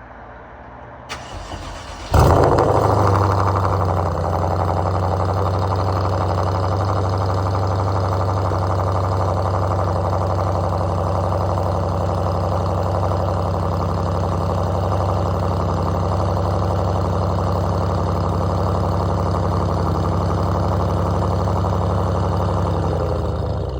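BMW 550i's twin-turbo V8 starting up through catless downpipes, an H-pipe and a deleted muffler. The starter engages about a second in, and the engine catches about two seconds in with a loud flare. It then settles into a steady idle, which drops away near the end.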